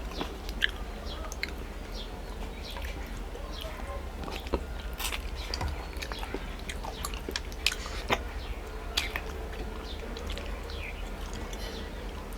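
A person chewing mouthfuls of rice and fish curry, with many wet mouth clicks and lip smacks and a few louder smacks.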